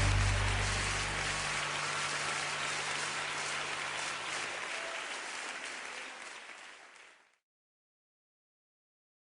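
Congregation applauding as the final chord of the music dies away; the clapping fades out and the sound cuts to silence about seven seconds in.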